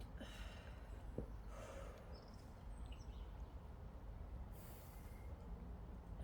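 A lifter's forceful breaths during a set of barbell back squats: about four short, hissy bursts of breath, with one sharp knock about a second in.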